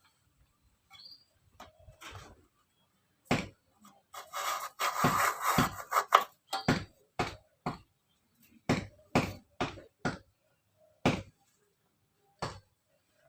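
Hand work on thin strips for bird-cage spokes: a scattering of sharp taps and knocks, with a two-second scraping rasp about four seconds in, then a string of separate taps.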